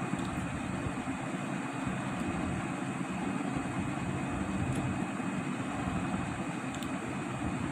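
Steady machinery noise: a low, even rumble with a hiss above it and a faint steady high tone, with no change in pace.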